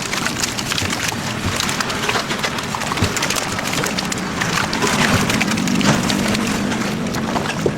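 Live catfish thrashing and splashing in a shallow tub of water as one is grabbed out by hand: a dense, irregular run of slaps, knocks and crackles.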